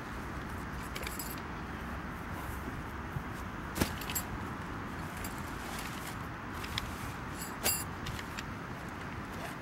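A few short, sharp metallic clinks, the loudest about four seconds in and again near eight seconds, over a steady rushing background noise.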